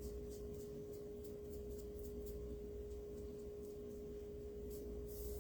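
A steady single-pitched tone and a low hum run throughout, with faint soft scratches of a paintbrush spreading chalk paint over a board, a few strokes a second.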